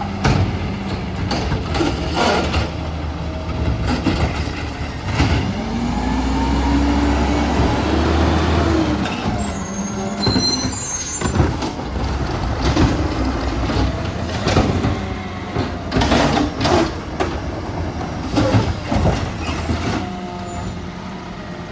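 Garbage truck engine running, rising and falling in pitch for a few seconds about a third of the way in. Repeated knocks and bangs come over it, typical of a waste bin being lifted and emptied, with a brief high squeal about halfway through.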